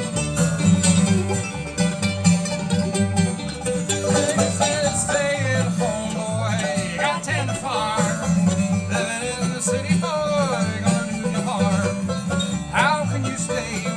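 Bluegrass band playing an instrumental break between verses: banjo and guitar over a pulsing bass line, with a sliding lead melody coming in about four seconds in.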